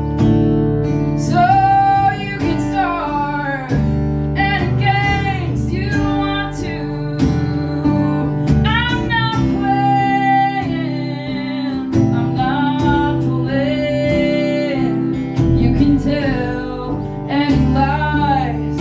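A woman singing with acoustic guitar accompaniment: sung lines with long held notes over steadily played guitar chords.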